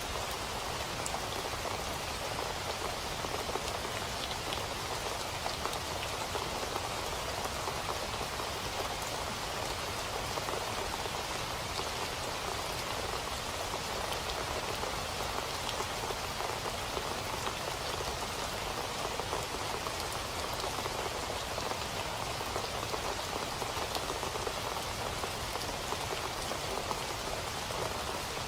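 Steady rain falling, a constant dense hiss of drops with faint scattered patters on a surface.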